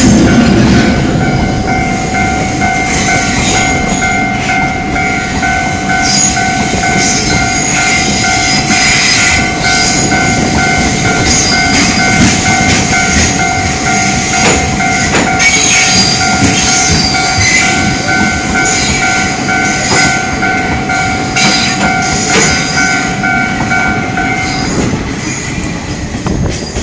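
Coal hopper wagons of a freight train rolling past close by: a steady rumble of wheels on rail, with many clacks and occasional high squeals from the wheels. Over it a level-crossing warning bell rings steadily and stops a couple of seconds before the end.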